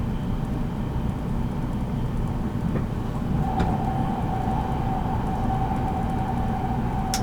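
783 series electric train running, heard from inside its motor car: a steady rumble of wheels and running gear on the track. A single steady high tone comes in about halfway through and holds, with a few light clicks.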